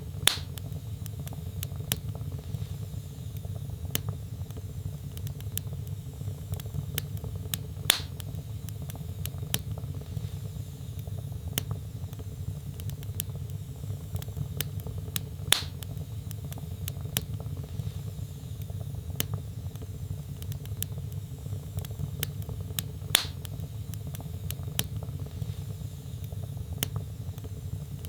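Log fire in a fireplace crackling over a steady low rumble, with frequent small clicks and four louder pops spaced about seven and a half seconds apart.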